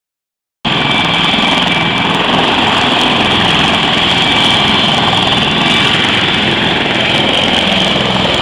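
CH-53E Super Stallion heavy-lift helicopters running: a loud, steady noise of turboshaft engines and rotors with a thin, high, constant whine. It cuts in abruptly about half a second in, after a short dropout of dead silence.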